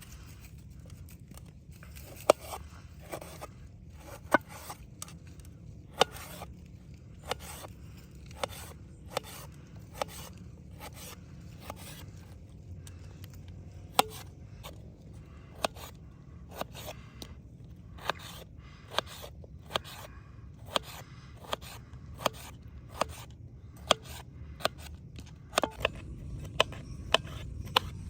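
Food being cut by hand: irregular sharp cutting taps with scraping, about one or two a second.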